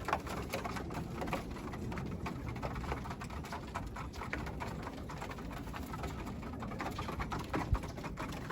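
Young racing pigeons at the loft's trap door, with many scattered light taps and clicks.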